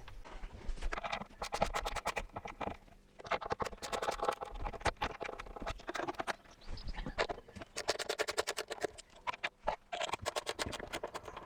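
Quick, irregular clicking and light knocking of hand tools and fittings as a cabinet panel is taken off.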